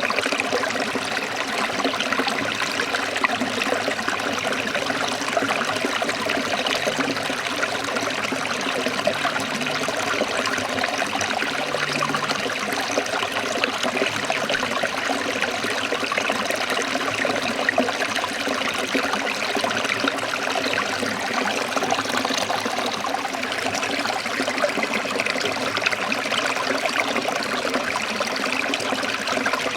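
A small stream of water trickling and splashing over rocks in a steady, unbroken rush.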